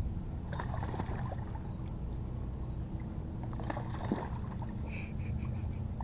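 Water sloshing around a small boat, with scattered knocks and rustles over a steady low rumble. About five seconds in there is a short run of about five high chirps that fade out.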